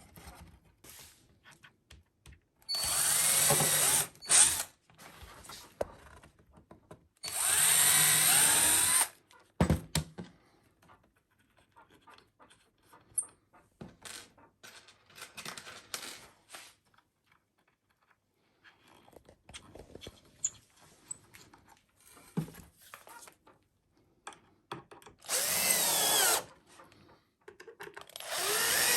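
Power drill run in four short bursts of about one to two seconds each, working into wood, with small clicks and handling noises of tools and boards between the bursts.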